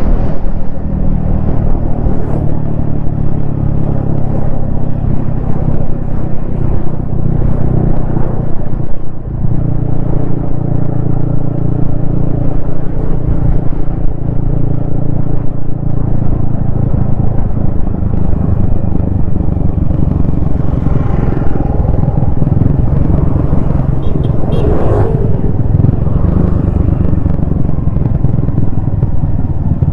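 Yamaha XSR155's single-cylinder engine running through an aftermarket DIY exhaust while riding, its pitch rising and falling with the throttle. There is a short dip in loudness about nine seconds in.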